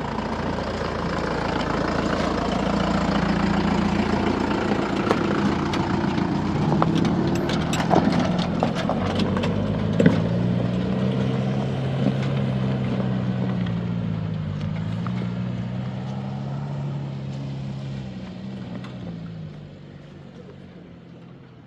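Truck engine running, its pitch rising and falling as it revs, with a few sharp knocks about halfway through; the engine sound fades away near the end.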